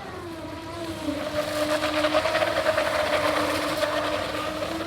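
Electric RC boat with a 4255 brushless motor running at full throttle, a steady, slightly wavering whine. A hiss swells through the middle and eases near the end.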